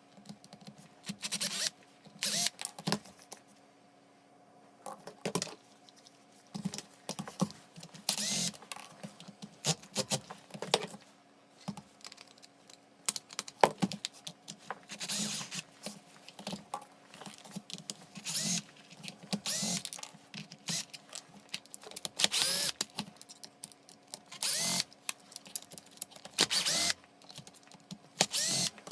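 Hands-on repair work on a cordless hammer drill: a string of short bursts of scraping and squeaking, each under a second or so, with scattered clicks, over a faint steady hum.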